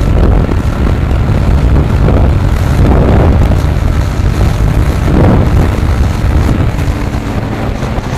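Bajaj Pulsar NS 125's single-cylinder engine at full throttle during a hard acceleration run through the upper gears, mixed with heavy wind rush on the microphone.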